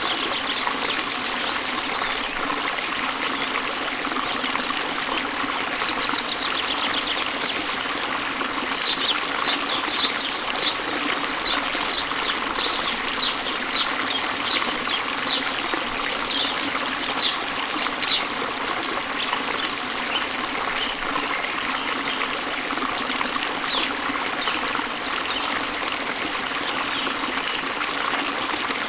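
Waterfall water rushing steadily. Partway through, a bird calls a run of short, high, down-slurred notes, about two a second, then a few fainter ones.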